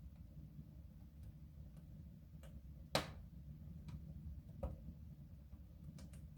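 Wood fire crackling in a soapstone stove: scattered faint ticks, with one sharp pop about three seconds in and another about a second and a half later, over a low steady rumble.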